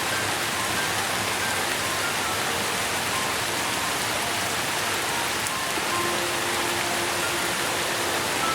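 Steady rain falling, an even, unbroken hiss, with faint short tones scattered through it.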